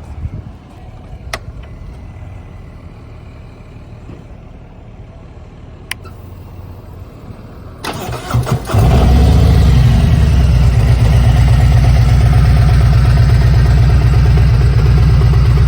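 Two light clicks, then about eight seconds in a Harley-Davidson V-twin motorcycle engine cranks briefly, catches and runs loudly at idle with a low, lumpy beat.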